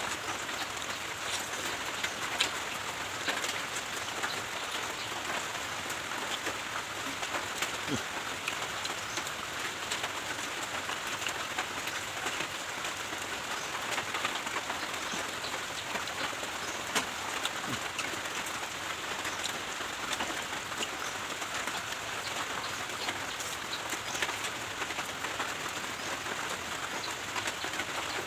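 Rain falling steadily: an even hiss with many small scattered drop ticks.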